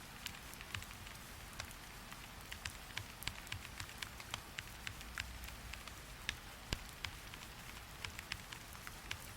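Steady rain hiss with scattered, irregular sharp ticks, a few each second.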